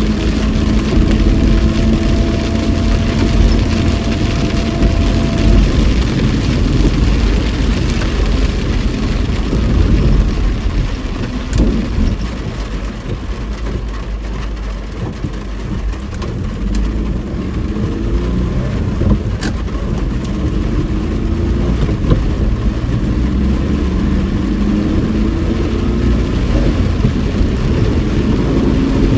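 A car driving through heavy rain, heard from inside the cabin: a steady low rumble of engine and tyres on the wet road under a hiss of rain, with the engine note rising and falling as the revs change. It is a little quieter for a few seconds in the middle.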